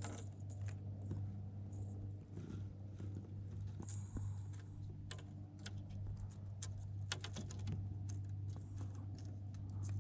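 Scattered light clicks and taps, irregular, over a steady low hum.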